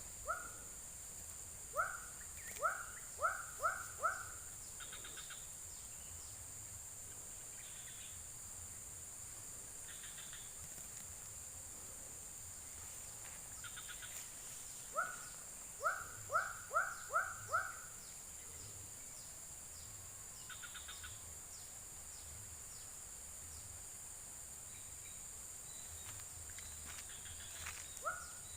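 White-breasted waterhen calling in two bouts of short rising notes, about three a second, over a steady high insect drone.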